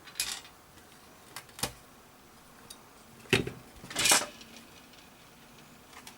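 Hard small objects handled on a workbench: a few scattered clicks and knocks, with the two loudest, a sharp knock and then a short scraping clatter, about three and four seconds in.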